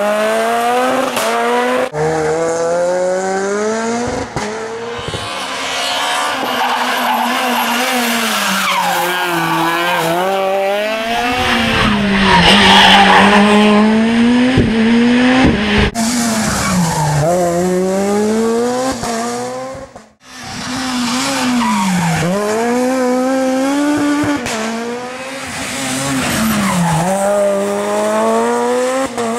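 Rally cars at full effort on a tarmac special stage: engines revving up and falling back through gear changes and corners, with tyre squeal. The sound breaks off abruptly a few times as one car gives way to the next.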